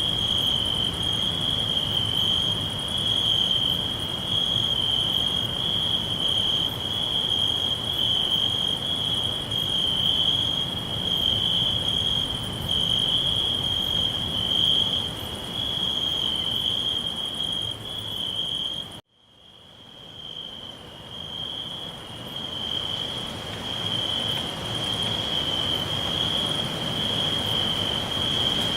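Crickets chirping in a continuous high-pitched trill over a low rumble. About two-thirds of the way in the sound cuts out abruptly, then fades back in over a few seconds.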